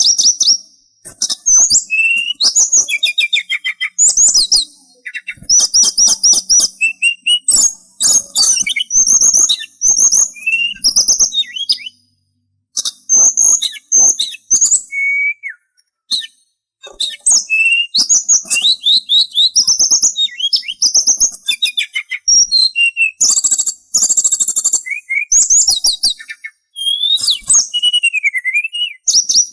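Songbird known in Indonesian as sulingan singing a fast, varied run of chirps, trills and whistled notes, almost without pause, with short breaks about twelve and sixteen seconds in.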